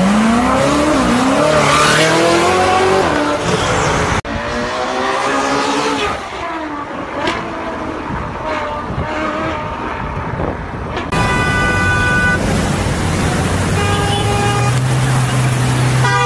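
Ferrari supercar engines revving up and accelerating away, in several short clips. Near the end, car horns toot over the steady note of an engine running at low speed.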